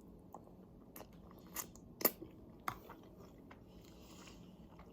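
Close-miked eating sounds: quiet chewing and biting with a few sharp, crunchy mouth clicks, the loudest about two seconds in.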